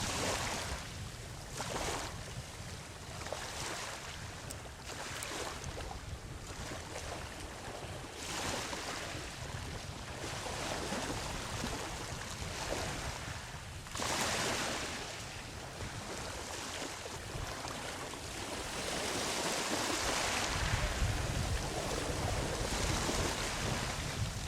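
Ocean waves breaking and washing up a sandy beach, the surf swelling and easing every few seconds, with wind rumbling on the microphone.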